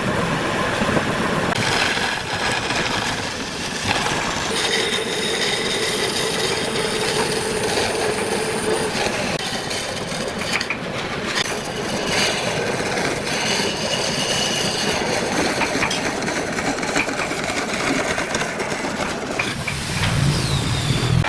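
Woodworking power machinery running and working wood: a loud, steady mechanical noise with a high whine over it for a few seconds near the middle.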